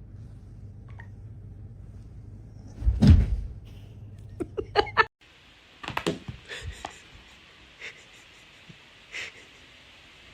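A loud, heavy thump about three seconds in, followed by a quick run of sharp knocks. After an abrupt cut, a few scattered light taps sound over a steady hiss.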